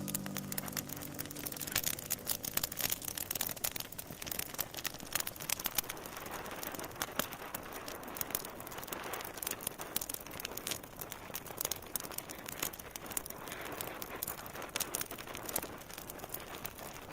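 Steady crackling noise, full of irregular sharp pops and clicks.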